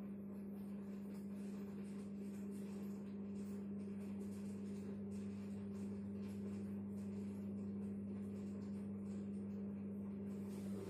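Washing machine running mid-cycle with a load of shoes, giving a steady, even hum.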